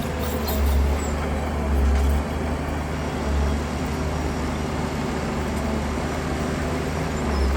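Heavy diesel engine of earthmoving machinery running with a steady low rumble that swells briefly a few times.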